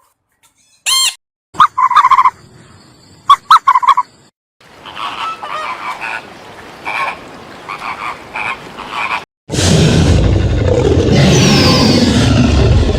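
A string of separate animal calls joined by abrupt cuts: a few short pitched calls, then a run of repeated calls, and from about nine and a half seconds in a loud, dense, rumbling stretch.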